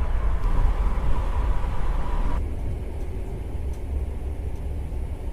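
Steady low rumble of a moving train heard inside the carriage, with a faint steady whine that cuts off suddenly a little over two seconds in, leaving a duller, quieter rumble.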